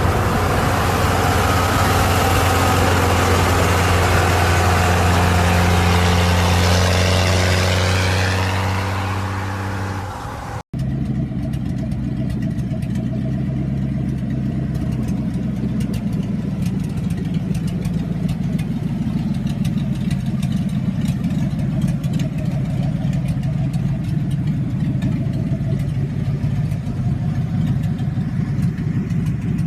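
Truck engine running loud at a steady pitch, easing off about ten seconds in. Then, after an abrupt cut, another truck engine runs with a steady, rough rumble and a patter of small ticks.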